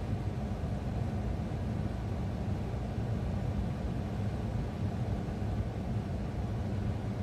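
Steady low rumble inside a police car with its engine running.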